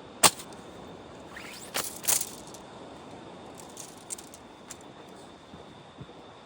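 Tent gear being handled: a loud sharp clack about a quarter second in, a cluster of clacks and rustles around two seconds in, then a few lighter ticks, over a steady background hiss.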